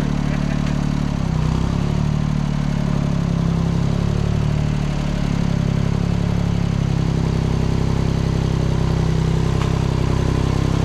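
Engine running steadily, its pitch shifting slightly about a second in and again around five seconds.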